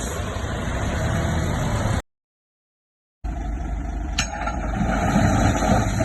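Heavy diesel earthmoving machinery running with a low rumble. The sound drops out completely for about a second two seconds in, then returns with a sharp click.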